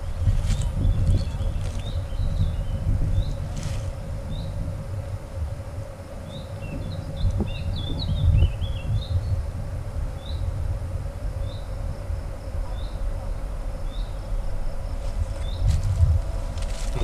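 A small bird calling with short rising chirps, a quick flurry about halfway through, then single chirps about once a second, over a steady insect buzz and a low wind rumble on the microphone.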